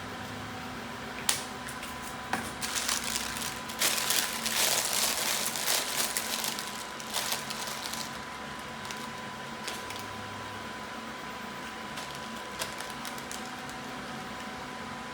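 Handling of small craft items on a work surface: a sharp click a little over a second in, then several seconds of irregular clicking and rustling, over a steady background hum.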